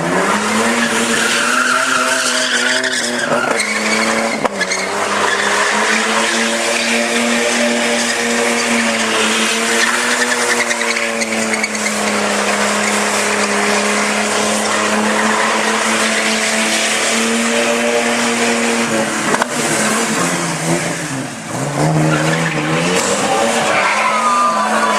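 Car doing a burnout: the engine is held at high revs while the rear tyres spin and squeal. The revs dip briefly about four seconds in, and drop sharply near the end before climbing back up.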